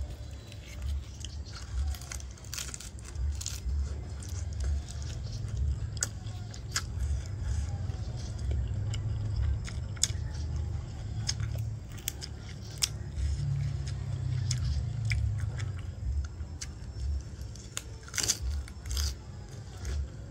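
A person chewing and biting food, with irregular clicks and smacks of eating.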